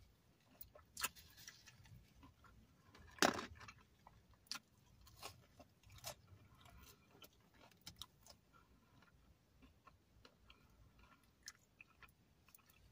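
Faint close-up eating sounds: chewing with scattered wet mouth clicks, and one louder crunch about three seconds in.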